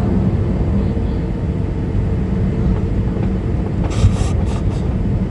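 Cabin noise of a Boeing 737-800 taxiing: a steady low rumble from the engines at idle and the rolling airframe, with a short clatter of knocks about four seconds in.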